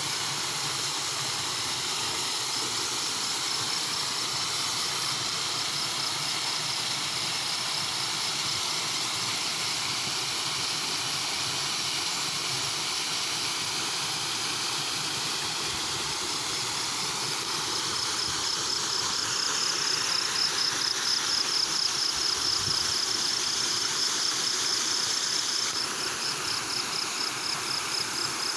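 Steady rushing of flowing water, with a high, fast-pulsing insect trill that grows louder about two-thirds of the way in.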